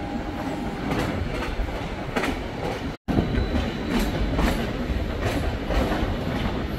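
Suburban electric train (elektrichka) pulling away and passing, a steady rumble with its wheels clicking repeatedly over the rail joints. The sound cuts out completely for a moment about three seconds in.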